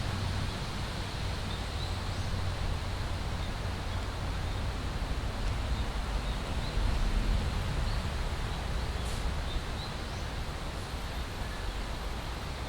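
Steady rushing of running water and wind outdoors, with wind rumbling on the microphone and a few faint high chirps.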